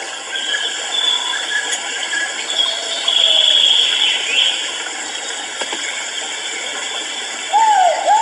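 Great argus calling: two loud arched notes, each rising and then falling, about three-quarters of the way through. A steady background of high insect buzzing runs throughout, with a drawn-out higher whistle near the middle.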